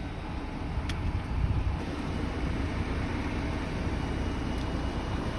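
Steady low rumble and hiss of a moving vehicle, with a faint click about a second in.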